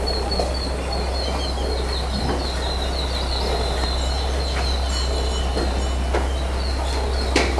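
A bird calls in a quick series of short, high chirps over a steady, loud rumbling background noise, with a sharp click near the end.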